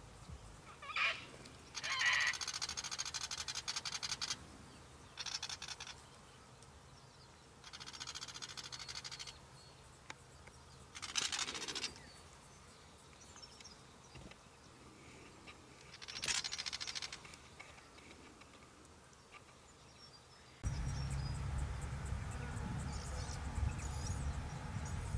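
Willie wagtail calls: short, harsh, chattering bursts every few seconds. From about 20 seconds in, a steady low rumble of wind on the microphone takes over.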